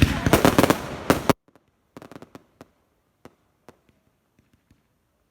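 Fireworks going off: a rapid string of sharp cracks for about a second and a half, then a few scattered single cracks that die away.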